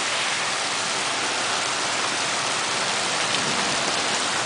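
Torrential rain pouring down in a steady, dense hiss of drops pounding hard surfaces.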